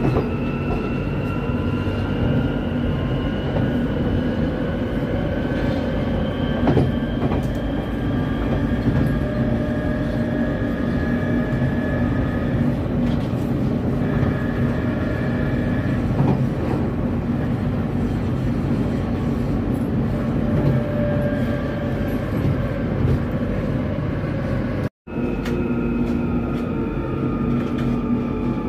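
Electric passenger train running, heard from inside the carriage: a steady rumble of wheels on rail under a whine that slowly rises in pitch, with a few knocks from the track. The sound cuts out for an instant near the end.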